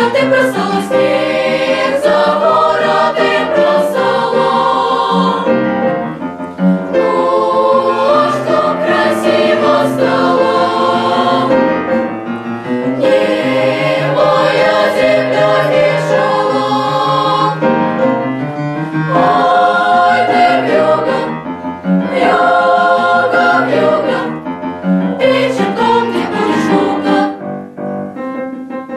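Children's choir singing with piano accompaniment, in phrases of several seconds separated by short breaths.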